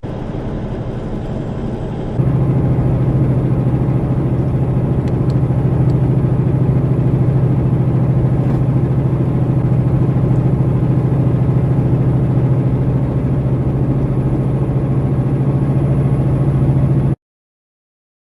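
Steady drone of a moving vehicle's engine and road noise inside the cab, getting louder with a sudden step about two seconds in, then cutting off abruptly near the end.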